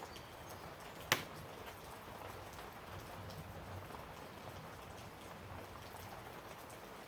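A small tool or carburetor part clicks down once on the workbench about a second in, over a steady faint hiss.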